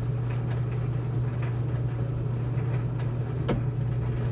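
Midea top-load washing machine running on an extra-heavy cycle: a steady low hum, with a single sharp click about three and a half seconds in.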